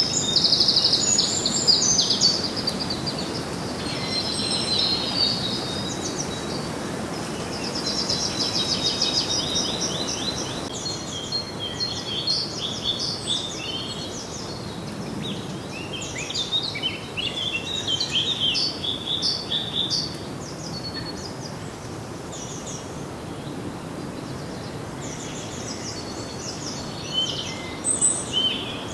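Several songbirds singing together in fast trills and chirps over a steady background hiss, with the loudest bursts near the start and again about halfway through.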